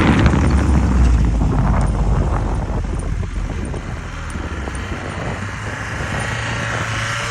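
Land Rover Defender 110 engine running with a low steady drone, loudest in the first second or so, then easing to a quieter, even hum.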